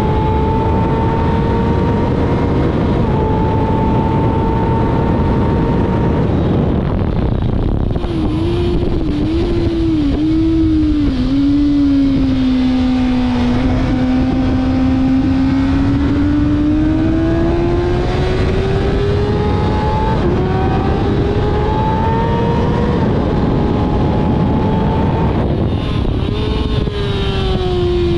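Kawasaki ZX-6R's inline-four engine at speed on a race track, under a steady rush of wind noise. The revs climb and step down at gear changes, waver up and down several times as the throttle is worked through a corner, rise slowly again with further shifts, and drop off about three seconds before the end before climbing once more.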